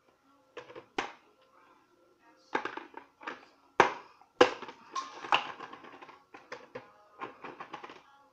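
Irregular knocks and clattering bangs, about a dozen hits of varying loudness, the sharpest a little under four seconds in and just after four, with faint steady tones underneath.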